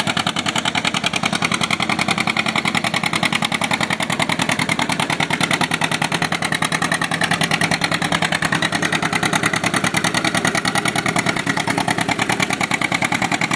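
Tractor engine running steadily at an even speed, its firing strokes coming as a fast, regular pulse.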